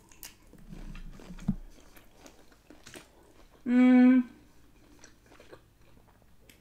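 Close-miked chewing of a cooked shrimp: soft, wet mouth sounds with faint small clicks. About four seconds in comes a short, steady hum from the voice, the loudest sound in the stretch.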